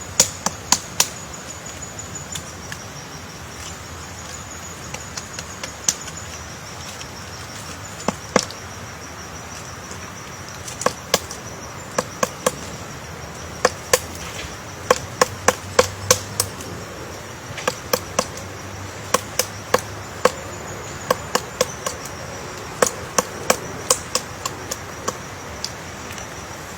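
Woodpecker pecking into wood as it chisels out a nest hole: sharp single knocks in irregular runs with short pauses between them. Throughout, a steady high insect trill.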